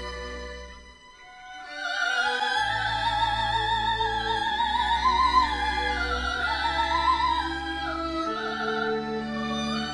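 Female solo voice singing a slow, sustained melody in classical style with wide vibrato over held accompaniment chords. The voice comes in about two seconds in, after a brief lull.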